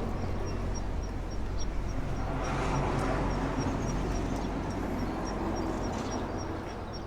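A vehicle passing by, its noise swelling about halfway through and then fading, over a steady low engine hum.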